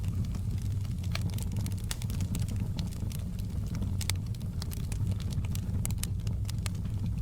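Crackling fireplace: a steady low rumble of burning wood, with frequent sharp pops and crackles coming at irregular moments.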